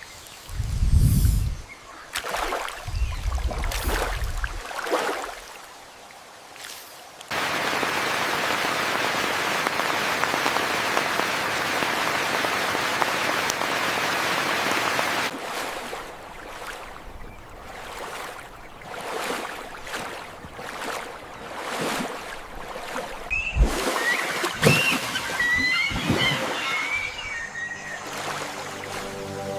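Rain and rushing-water ambience. Low rumbling swells come in the first few seconds, then a steady, even rush of water for about eight seconds, then patchier noise with a few short high chirps near the end.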